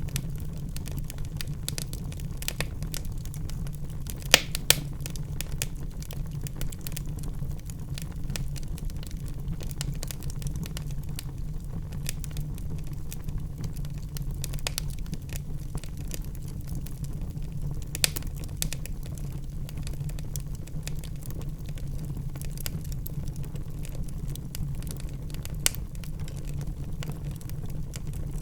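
Wood logs burning in a fireplace, crackling with a dense run of small snaps and a few sharper pops, over a steady low rumble.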